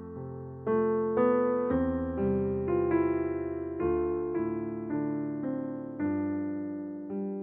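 Slow, gentle piano music: single notes and chords struck about every half second, each one fading before the next.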